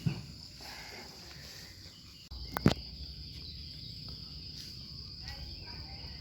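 Forest insects droning steadily in one high, even pitch, with a single sharp crack about two and a half seconds in and a smaller click at the very start.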